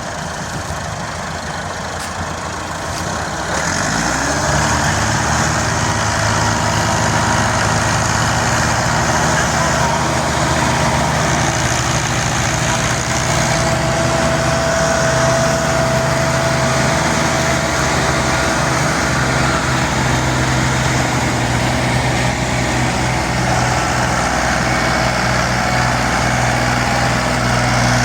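Tractor engine revving up about three seconds in, then running steadily and loudly at high revs.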